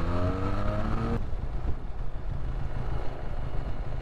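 Benelli Leoncino 500's parallel-twin engine, on its stock exhaust, accelerating with a rising pitch, then the throttle closing abruptly about a second in and the engine dropping to a low, uneven rumble.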